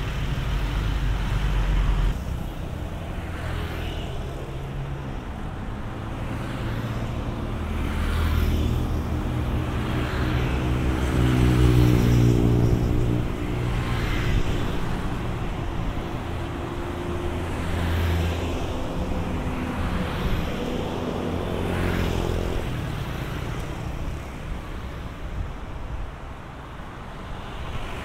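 Diesel locomotive hauling a train of tank wagons along street-running track, its engine running with a low drone that swells in pitch and level twice. Repeated clatter comes about every two seconds, with road traffic mixed in.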